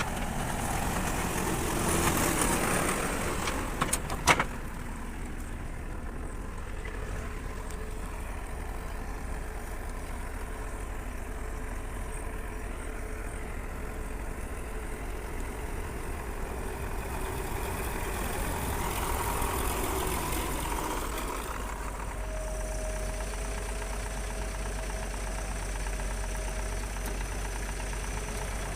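Diesel engine of heavy machinery running steadily, with a sharp knock about four seconds in and the engine note swelling briefly about two-thirds through.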